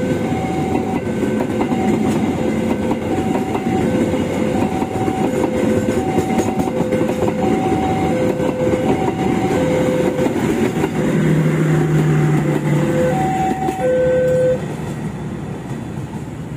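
Passenger train coaches running past on the rails with a dense rumble, while a level-crossing warning alarm sounds a slow alternating high–low two-tone chime. About 14.5 seconds in the alarm stops and the sound drops off sharply.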